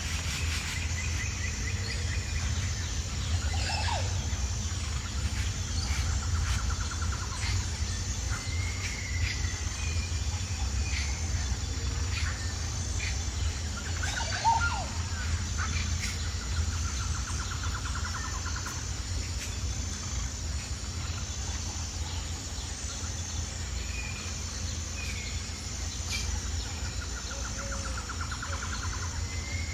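Birds calling outdoors: scattered short chirps and a few fluttering trills, over a steady low rumble and a constant, evenly pulsing high-pitched buzz.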